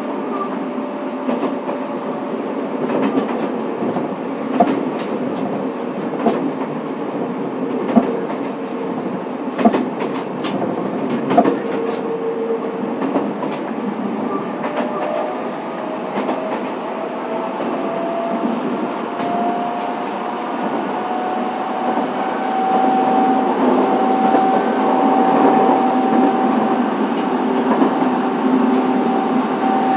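Fukuoka City Subway 2000 series electric train running, heard from on board: steady running noise with a few clicks of wheels over rail joints. Near the middle a motor whine starts to climb in pitch as the train picks up speed.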